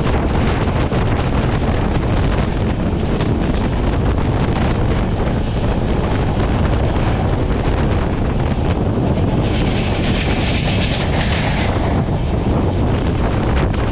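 Indian Railways passenger train running along the track, heard from on board: a steady, loud rumble of wheels on rail with wind buffeting the microphone. A brief hiss joins in for a couple of seconds past the middle.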